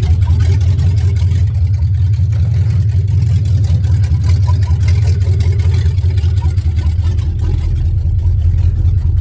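Steady low engine and road drone of a vehicle being driven.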